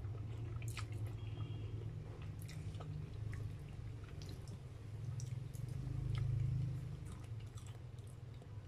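Close-up mouth sounds of spaghetti being chewed and slurped: wet chewing with scattered short clicks and smacks, over a steady low hum that swells about six seconds in.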